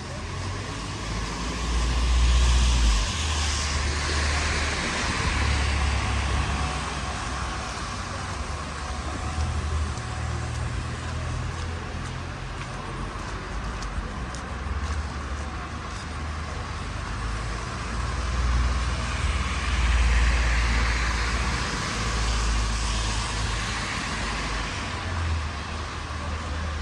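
City street traffic noise: vehicles passing by twice with a rising and falling hiss of tyres, over a steady low rumble.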